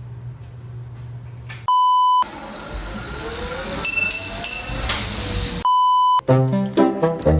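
A low steady hum, then a half-second 1 kHz test-tone beep. After it come a few seconds of static with rising whistling glides and a couple of short high beeps, a second half-second 1 kHz beep about four seconds after the first, and then music with brass starting up.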